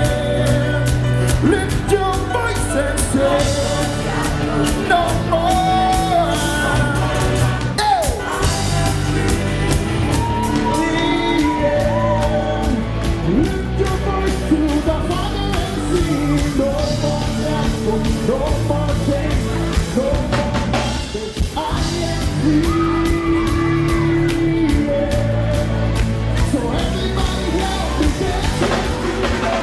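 Live worship band playing in a large hall, with voices singing over drums, bass and guitar, and shouts and whoops from the crowd.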